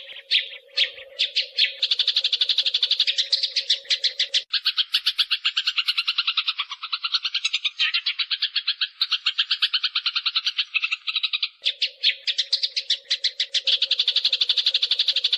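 Eurasian tree sparrows fighting: a dense, rapid chatter of harsh chirps, many per second, that runs without a break. A steady hum lies under the chatter for the first few seconds, drops out, and returns again near the end.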